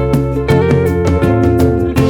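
Background music: plucked guitar playing a quick run of notes over a steady bass, ending on a sustained chord.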